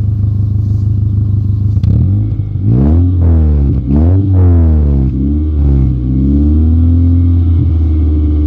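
1993 Acura Integra LS's 1.8-litre four-cylinder engine idling, then revved about two seconds in: several quick blips up and back down, then held at a steady raised speed.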